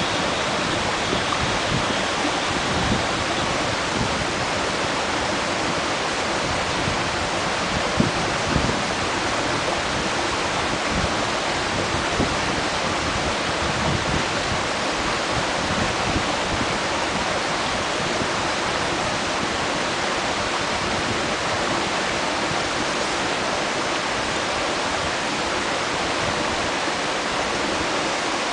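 Gorge stream rushing with a steady, even noise, with a few brief small pops over it.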